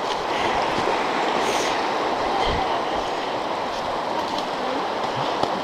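River water rushing steadily through a shallow crossing, with a dull low thump about two and a half seconds in.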